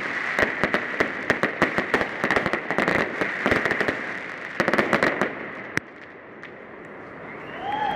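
Fireworks display: a dense run of rapid crackling bangs and pops that thins out and stops about six seconds in.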